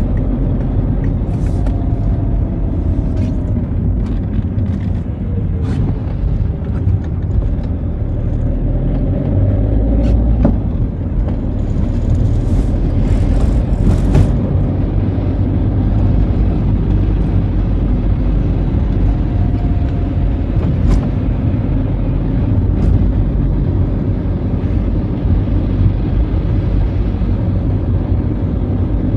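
Citroën Xsara driving on a wet road: a steady low rumble of engine and tyre noise, with scattered faint clicks.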